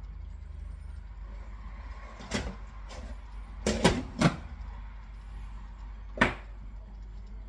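Kitchen clatter: a few sharp knocks of cookware, one about two seconds in, a quick group of three near four seconds and one more near six, over a steady low hum.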